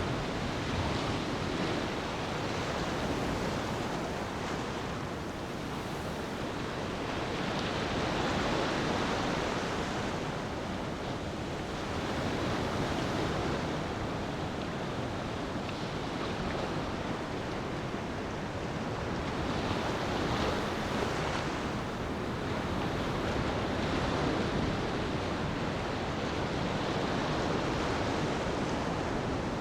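Sea waves washing onto a beach in slow, gentle swells that rise and fall every few seconds, a continuous rushing surf.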